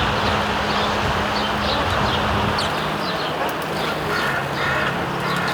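Sparrows chirping over and over in a hedge, short high chirps coming thick and fast over a steady low hum and outdoor background noise.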